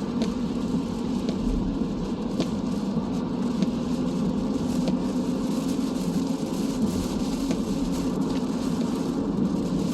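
Steady road and engine noise of a car driving in the rain, heard from inside the cabin, with a few faint scattered ticks.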